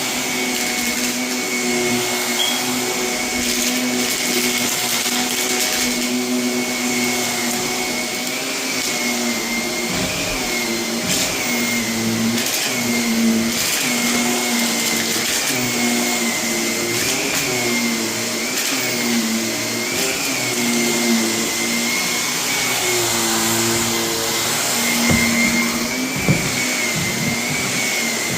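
Canister vacuum cleaner running steadily, its motor pitch dipping and recovering with each push and pull of the head across the carpet. Scattered crunches and crackles come from grit and construction debris being sucked up, and the operator feels it is losing suction as the canister fills.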